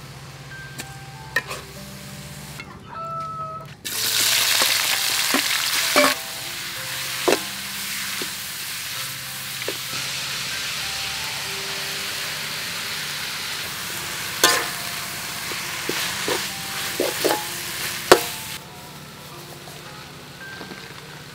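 Raw chicken pieces sizzling in a hot wok: a loud frying hiss that starts suddenly about four seconds in and stops suddenly near the end. A few sharp metal clinks of a utensil against the pan are heard during the sizzle.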